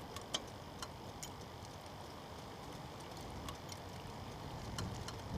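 Faint, irregular ticks and clicks, a few a second at most, over a quiet low background.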